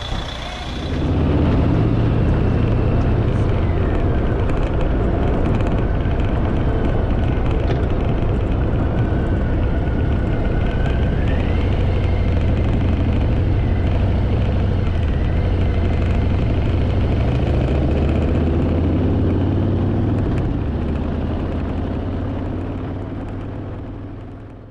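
Harley-Davidson Fat Boy's V-twin engine running steadily after its loose battery terminal has been re-tightened. It comes in strongly about a second in and fades away near the end.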